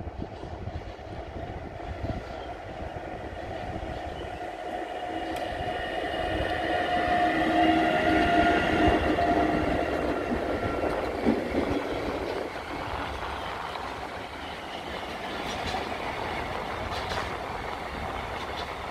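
A pair of electric freight locomotives, a Bombardier TRAXX Class 186 and a Siemens Class 189, run together as they approach and pass, giving a whine of several tones that is loudest about eight seconds in. Pocket wagons carrying lorry trailers then roll by with the clickety-clack of wheels over the rails.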